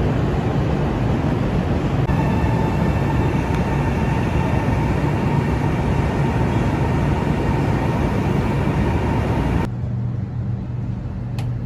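China Railway EMU train running, a loud steady rushing noise with a steady low hum and faint higher steady tones. About ten seconds in it drops abruptly to a quieter hum.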